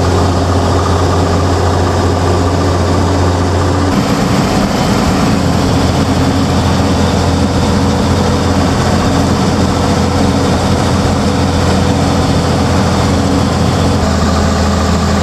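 AM General 5-ton 6x6 army truck's diesel engine running on the road, a loud steady low drone heard from the cab. The engine note changes about four seconds in and again near the end.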